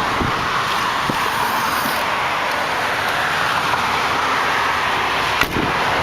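Steady road traffic noise, a continuous hiss of passing vehicles, with a single sharp click about five and a half seconds in.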